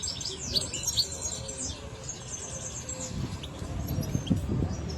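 European goldfinch singing, a fast twittering run of high notes through the first half, then only a few scattered notes. Low rumbling background noise runs underneath and grows stronger in the second half.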